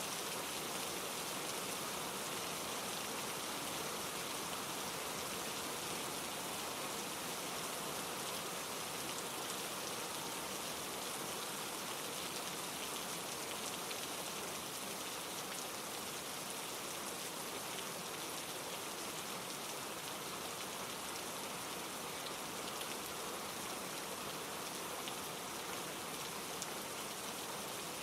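Steady rain falling through trees, mixed with a mountain stream rushing over granite rocks: an even, unbroken hiss that does not change.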